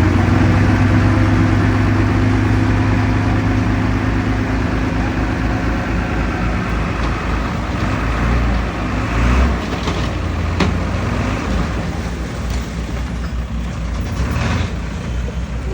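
Heavy diesel engine of earthmoving machinery running steadily, loudest for the first six seconds and then easing off, with a few short knocks in the second half.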